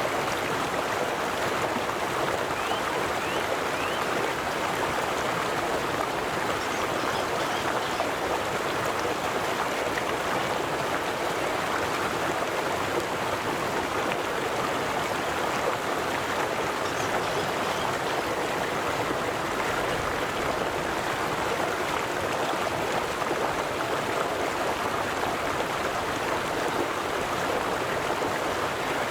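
River water flowing steadily, a continuous rushing with light splashing and burbling.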